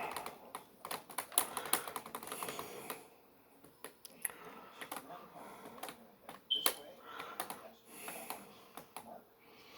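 Typing on a computer keyboard: irregular runs of key clicks, with pauses between them.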